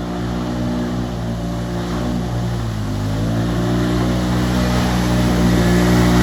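ATV engine running under throttle in mud: its pitch sags about two and a half seconds in, then climbs again and holds, growing louder.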